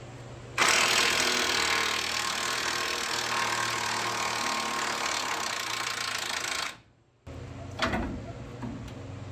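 Impact wrench hammering hard for about six seconds, then stopping, with a single knock near the end.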